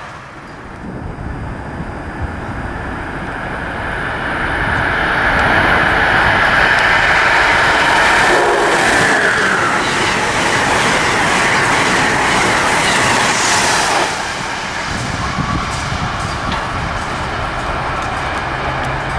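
A train passing on the rails: the rumble and clickety-clack of its wheels build about four seconds in, stay loud for about ten seconds, then drop off suddenly.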